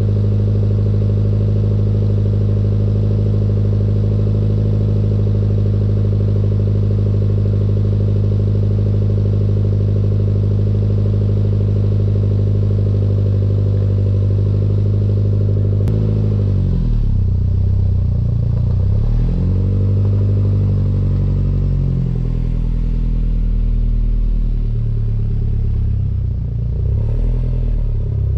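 Toyota MR2 SW20 inline-four engine idling steadily. About halfway through there is a click, and then the engine note rises and falls unevenly as the car pulls away and manoeuvres.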